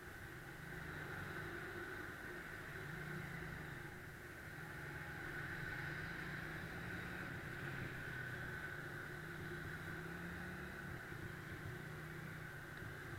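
Motorcycle engine running at low speed in slow traffic, its pitch wavering slightly with the throttle, over a steady background of street traffic.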